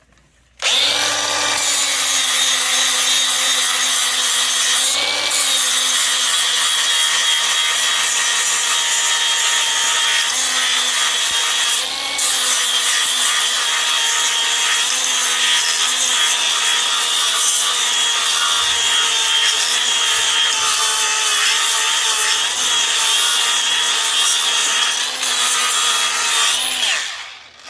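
Angle grinder grinding down fresh welds on steel bucket lugs: a steady whine and grinding hiss that starts about half a second in, with the motor's pitch dipping briefly a few times under load, and stops just before the end.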